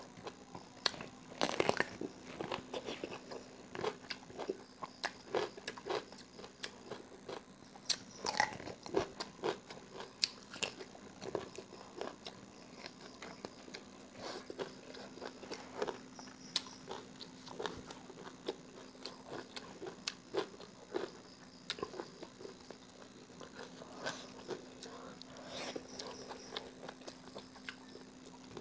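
A person chewing and crunching mouthfuls of rice with raw vegetables and greens, close to the microphone: irregular bites and crunches throughout, over a faint steady hum.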